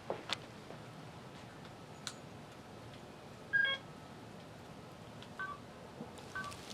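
Sleet pellets ticking now and then over a faint steady hiss. A short beep sounds about three and a half seconds in, and two fainter blips come near the end.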